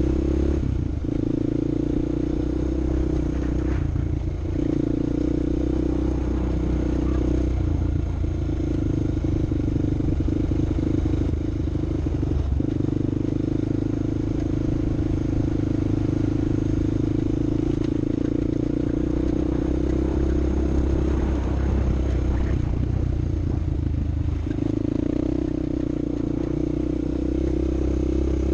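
Off-road vehicle engine running steadily under load, with a few brief changes in note, along with some rattling.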